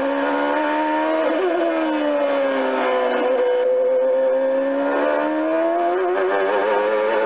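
Electronic truck-engine sound effect from a Jolly Roger American Big Truck kiddie ride's speaker, a steady synthetic engine tone whose pitch slowly dips and then rises again, like revving.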